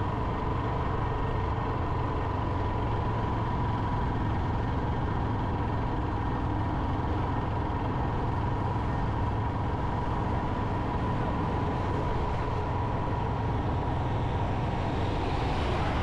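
Motorcycle running while being ridden, with steady engine and road noise and a thin steady whine. A brief swell of hiss comes near the end.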